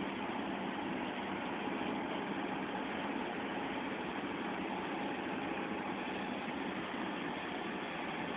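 Engine running steadily at idle, an even mechanical hum with no change in speed.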